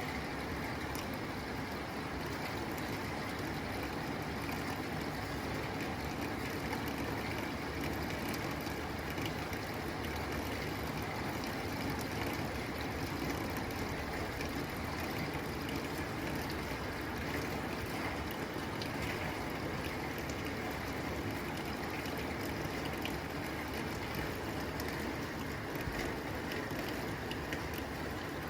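Steady rain falling on a tin roof, a continuous even patter with faint scattered drip ticks.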